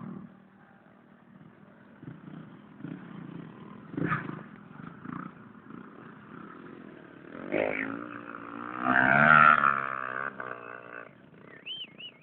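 Motorcycle engine revving, swelling up in the second half and loudest about three-quarters of the way through, its pitch wavering before it fades.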